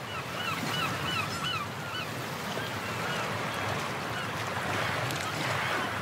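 A bird calling in a quick series of short rising-and-falling notes, mostly in the first two seconds and a few more later, over a steady rushing background noise.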